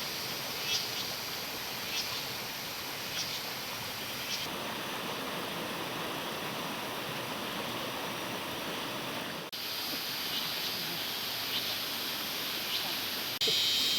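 Steady outdoor rushing noise, like flowing water, with short high chirps repeating about once a second. The noise changes abruptly a few times, at cuts.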